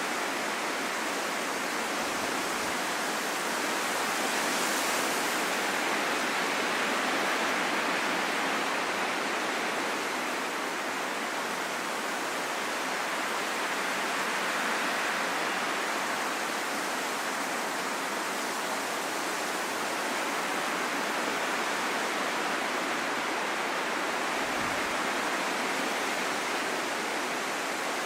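Steady rain falling in a forest, an even hiss with no single drops or other sounds standing out.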